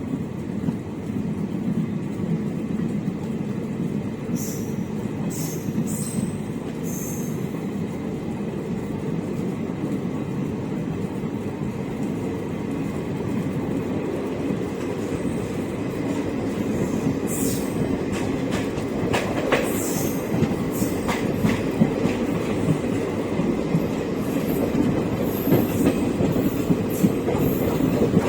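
Samleshwari Express passenger train running along the track: a steady rumble of wheels on rails that grows slightly louder, with brief high-pitched wheel squeals a few seconds in and again through the second half.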